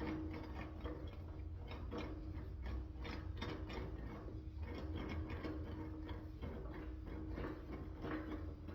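Sheet metal panel being run back and forth through an English wheel: a steady low rumble from the rolling wheels with irregular clicking and ticking as the panel flexes.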